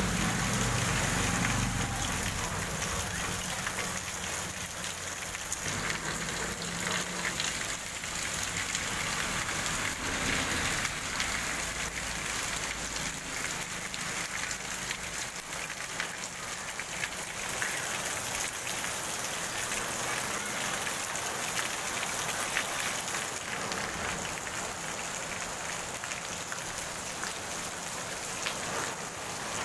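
Heavy rain pouring onto a flooded street, a steady hiss of drops splashing into standing water, with runoff streaming off a roof edge. A passing motor vehicle's low engine sound fades out in the first couple of seconds.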